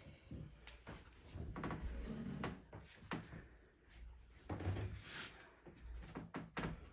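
Scattered knocks, clicks and low thuds, the loudest about four and a half seconds in, like things being handled and set down.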